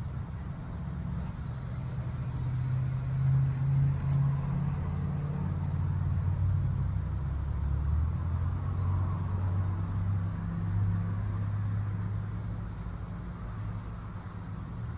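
An engine running steadily at a low idle, swelling a little a few seconds in and easing off near the end.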